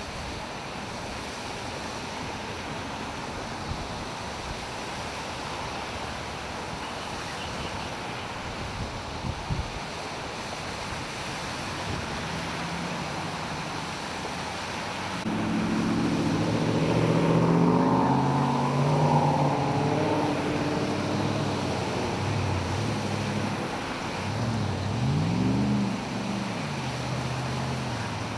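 Traffic on a flooded street: a steady wash of water noise from tyres in floodwater. From about halfway a vehicle engine comes up louder, its pitch rising and falling near the end.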